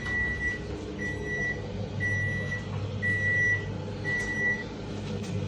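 Haier washing machine's control panel beeping five times, one steady high tone about once a second, signalling the F7 fault code still held in its memory. A steady low hum runs underneath.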